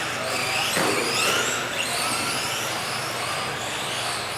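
A pack of electric radio-controlled Euro trucks racing just after the start, their motors giving many overlapping high whines that rise and fall as they accelerate and brake.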